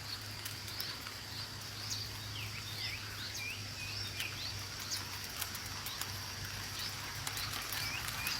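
Small bird chirping: many short rising and falling chirps, over a steady high-pitched insect drone.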